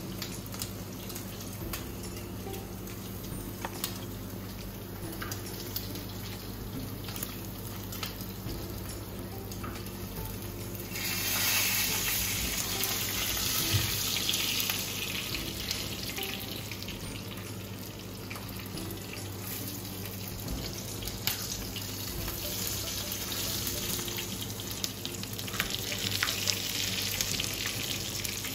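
Hot oil sizzling on an iron tawa as mutton chops fry, over a steady low hum, with occasional clicks of metal tongs. The sizzle grows suddenly much louder about eleven seconds in.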